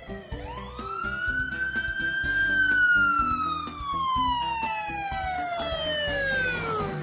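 An emergency-vehicle siren giving one long wail, rising over about two seconds and then slowly falling until it fades out near the end, over background music.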